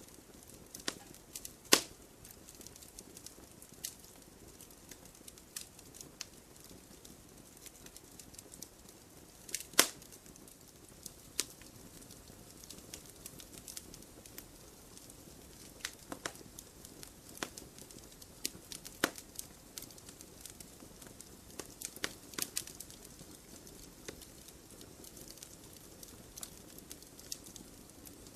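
Campfire crackling: burning wood snapping and popping in scattered, irregular sharp cracks over a faint low hiss, with two louder pops in the first ten seconds.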